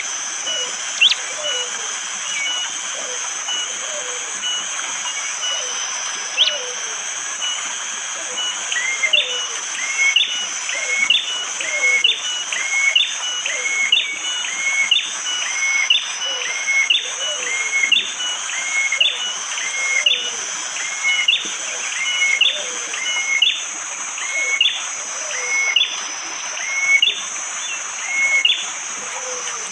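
Prenjak jali, a prinia, calling. After a few scattered sharp notes, from about nine seconds in it repeats a hard, sharp two-note call roughly once a second. A steady high insect drone runs underneath.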